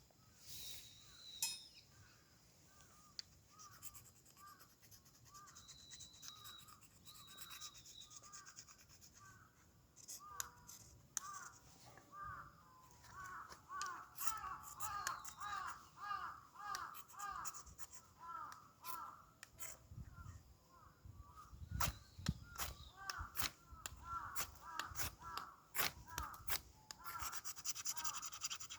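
Ferrocerium-rod fire starter being struck again and again, sharp scrapes coming thick from about a third of the way in. Behind them a bird calls steadily in quick short notes.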